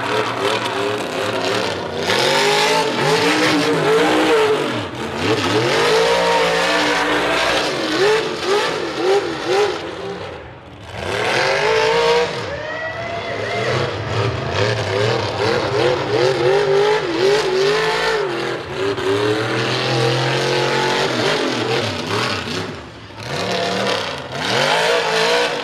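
A mega truck's engine revving hard and repeatedly, its pitch swinging up and down as the throttle is worked. The engine eases off briefly about ten seconds in and again near the end.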